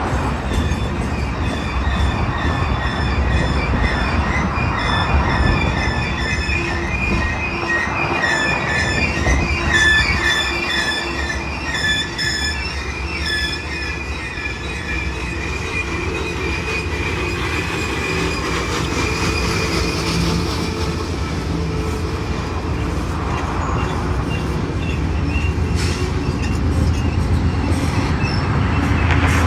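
Freight cars of a Union Pacific manifest train rolling past over a steady low rumble, with wheel flanges squealing in several high, wavering tones that are strongest in the first half and then fade.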